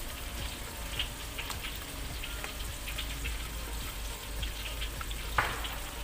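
A person chewing a bite of chicken drumstick, with small wet mouth clicks and one sharper click near the end, over a steady hiss.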